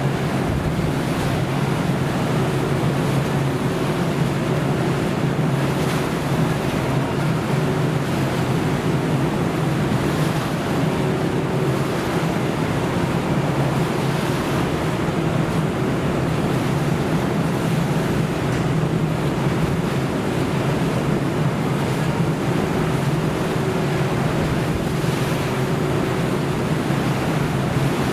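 Wind and rough sea on the open ocean, with the steady low drone of a ship's engine underneath.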